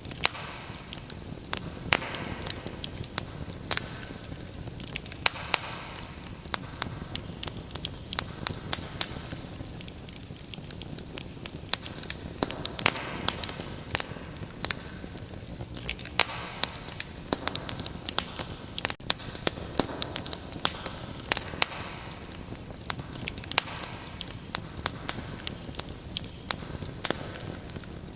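Wood fire burning in a fireplace, with frequent irregular sharp crackles and pops over a steady low hiss.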